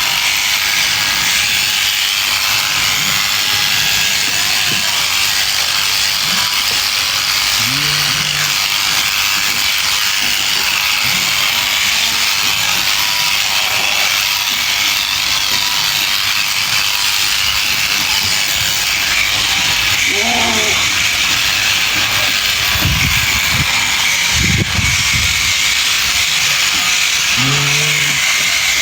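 Electric sheep shears running with a steady buzzing hiss as a sheep is shorn. Three short calls break through, likely the sheep bleating, and there are two low thumps a little before the end.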